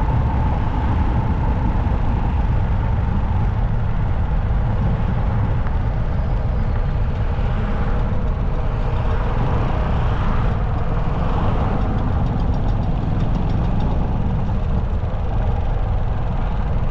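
Motorcycle engine running with a steady, loud low rumble.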